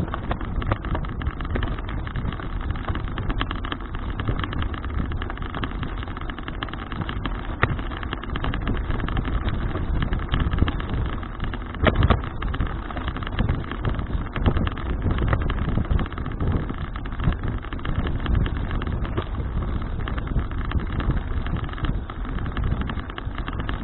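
Wind rushing over an action camera's microphone and road rumble from a bicycle being ridden, with small rattles and knocks throughout.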